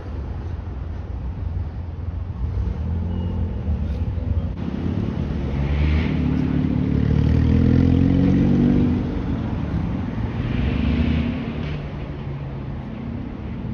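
Engines and exhausts of modified cars running as they drive slowly past, with a low rumble and some revving. The loudest pass swells through the middle and then fades.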